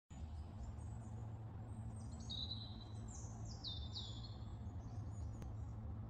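Wild birds calling: about four high, thin notes, some falling in pitch, between about two and four and a half seconds in, over a steady low background rumble.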